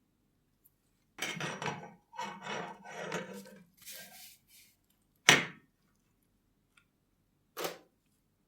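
Hand work on a small object: a run of short scraping and rustling strokes, then two sharp taps about two seconds apart, the first the loudest.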